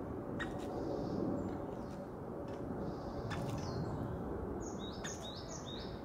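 Birds chirping over a steady low background rumble, with a quick run of high chirps stepping down in pitch near the end.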